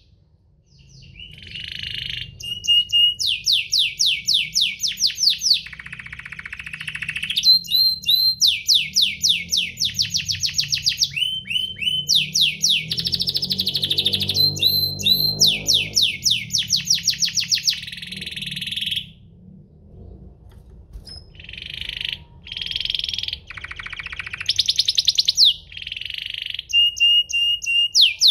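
Domestic canary singing: rapid trills of repeated downward-sweeping notes, switching from one trill type to another every second or two, over a faint low hum. The song breaks off briefly at the very start and grows quieter for a moment around two-thirds of the way through.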